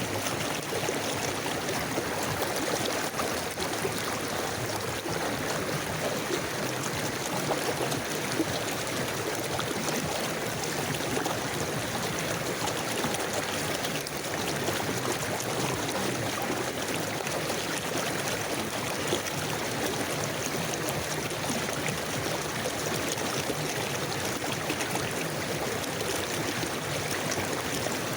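River water flowing steadily over rocks, a continuous bubbling, splashing rush with no pauses.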